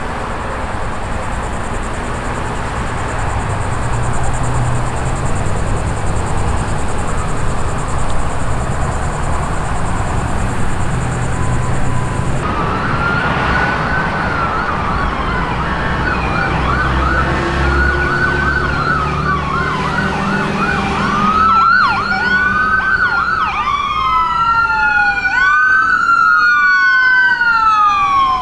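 Emergency-vehicle sirens from a responding fire battalion chief's vehicle and ambulance. Traffic rumble at first; about twelve seconds in a siren starts wailing up and down, and about nine seconds later a second siren joins with quicker sweeps, the two overlapping.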